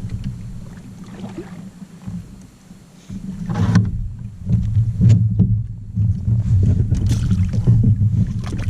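Water and handling noise on a fishing kayak: a low rumble against the hull that drops away for a moment, then returns from about three and a half seconds in with a run of knocks and splashes.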